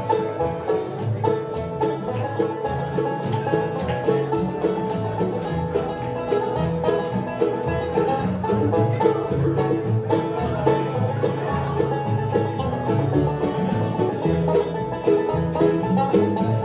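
Bluegrass band playing an instrumental break between verses: banjo picking over guitar, mandolin and a steady pulsing bass.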